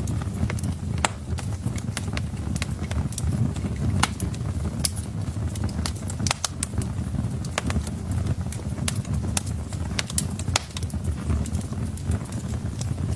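Wood fire burning in a fireplace: logs crackling with irregular sharp pops, several a second, over a steady low rumble of the flames.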